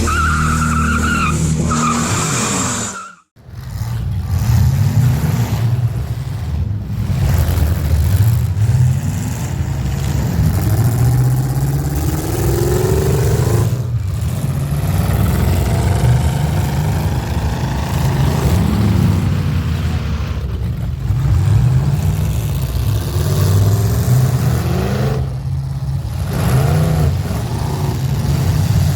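Rock intro music stops about three seconds in. Then the engines of demolition derby vehicles run and rev, their pitch rising and falling, with tyre and skid noise mixed in.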